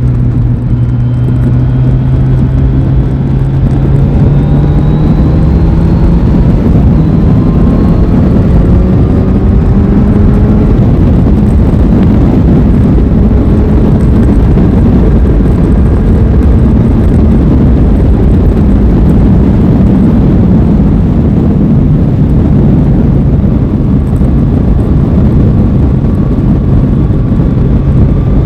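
Aprilia Tuono 660's parallel-twin engine pulling through a long, steady acceleration, its pitch rising gradually over the first ten seconds or so. It then runs at a near-constant pitch under a heavy steady rushing noise.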